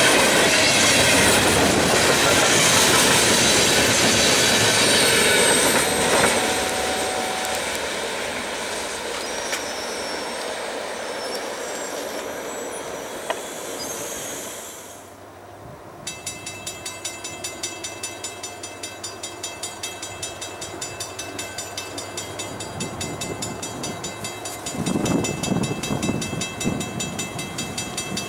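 Freight cars rolling past at close range, wheels clacking over the rail joints with thin wheel squeal, fading as the end of the train goes by. Then a grade-crossing bell rings steadily at about three strokes a second.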